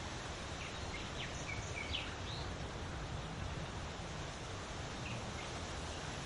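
Steady wind blowing, with a few short high bird chirps in the first couple of seconds and two more about five seconds in.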